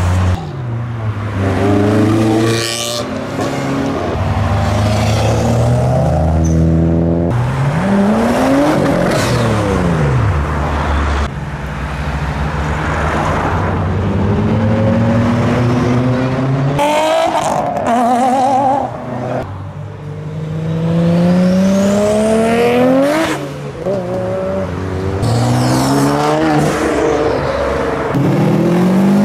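A string of Japanese performance cars, among them Nissan GT-Rs, accelerating hard one after another. Each engine rises in pitch through the gears with a break at each shift, and cars sweep past with a falling pitch.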